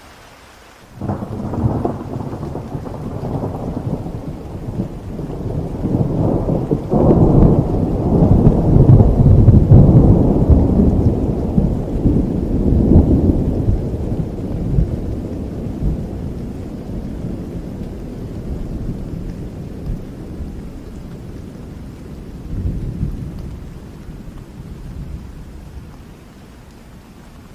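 Thunder rolling over steady rain: a sudden crack about a second in, then a long low rumble that builds for several seconds and slowly dies away into the rain.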